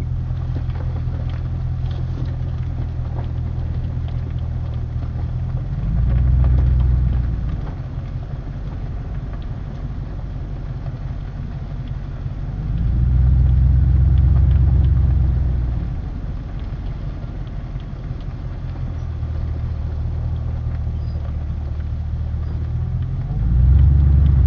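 A vehicle engine's low, steady drone, swelling louder three times for a second or a few seconds.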